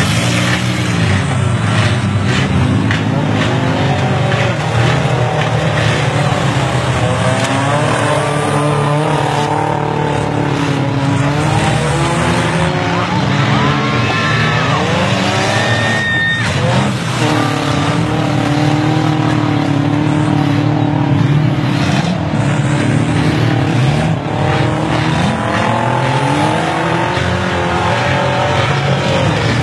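Several demolition derby cars' engines revving up and down together as they drive through mud, with occasional crashes as the cars ram each other.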